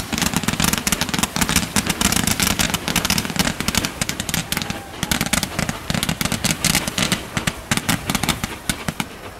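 Fireworks going off in rapid succession: a dense string of sharp crackling pops and bangs, thinning out near the end.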